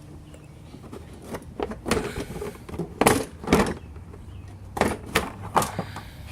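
Series of short scrapes and knocks, about six of them in the last four seconds, as a part is worked off a John Deere SJ40 walk-behind mower by hand.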